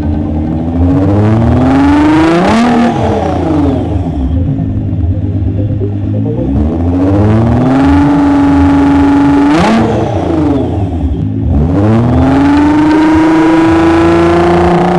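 Nissan GT-R R35's twin-turbo V6 breathing through a complete stainless-steel sports exhaust system, the car accelerating hard with its engine note climbing steadily, then falling in pitch as it goes by; this happens about three times.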